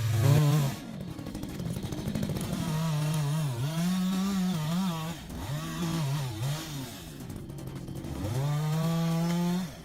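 Chainsaw engine running, its pitch rising and falling again and again as it revs and loads down in the cut. Near the end it is held at a steady high pitch for about a second and a half, then cuts off sharply.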